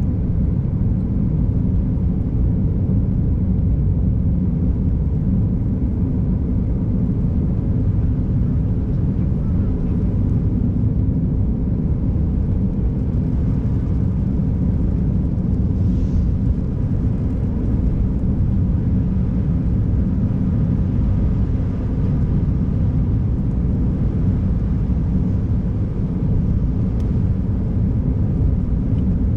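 A car driving at a steady pace on a snowy, icy road: a constant low rumble of engine and tyre noise that stays even throughout.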